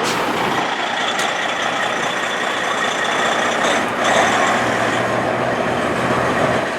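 Heavy diesel truck engine running steadily, getting a little louder about four seconds in.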